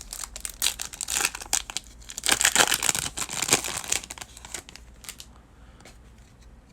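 Crinkling and tearing of a foil trading-card pack wrapper as it is handled and opened, dense for about four seconds and then dying down.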